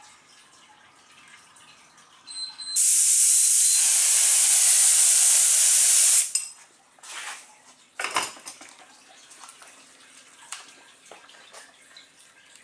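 Air spray gun hissing steadily for about three and a half seconds as hydrographic activator is sprayed over the film floating in the dip tank at about 18 to 20 psi. It is followed by a couple of short sharp sounds and faint dripping water.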